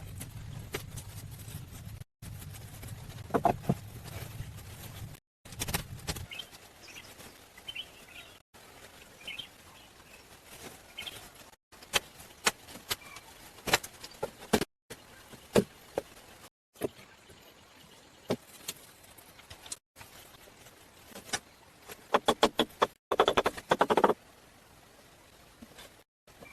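Scattered knocks and taps from hand work, with a quick cluster of knocks near the end. A low steady rumble runs through the first few seconds, and faint bird chirps come in between.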